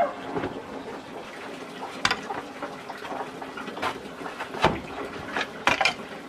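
Water running or sloshing, with several sharp knocks: one about two seconds in, then a cluster a little past halfway.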